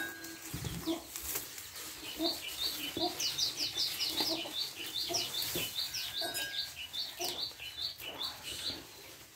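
Small bird chirping a rapid run of short, high notes, about four to five a second, starting about two seconds in and stopping near the end.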